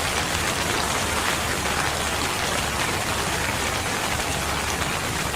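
Steady heavy rain falling and pattering on surfaces, a dense even hiss with a low rumble underneath.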